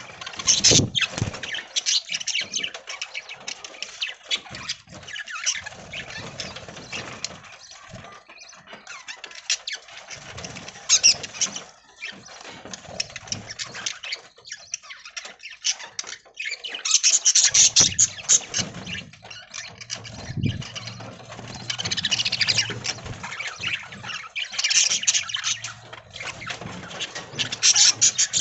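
A flock of budgerigars chattering and chirping continuously, with several louder flurries of calls.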